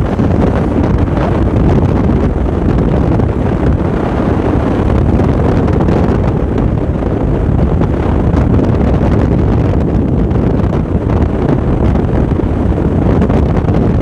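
Loud, steady wind rush on the microphone of a moving motorcycle, with vehicle noise underneath.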